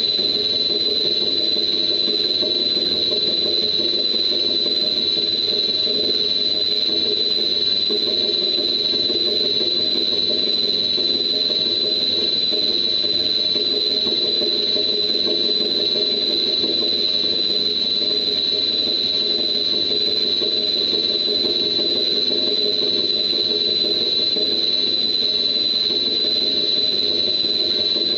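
Blower running with a steady high-pitched whine over a low hum, recorded as an example of a blower with a knocking fault.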